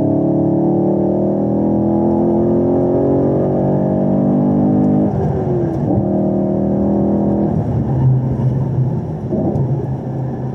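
A 2017 Camaro SS 1LE's 6.2-litre V8 at full throttle in third gear, its pitch climbing steadily, then upshifting to fourth about five seconds in and pulling hard again. A couple of seconds later the driver lifts off and the engine drops to a lower, rougher drone under braking, with a short rev blip on the downshift back to third near the end, heard from inside the cabin.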